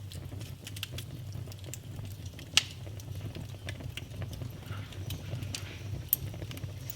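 Wood fire crackling in a fireplace: many small snaps over a low steady rumble, with one sharp loud pop about two and a half seconds in and another near the end.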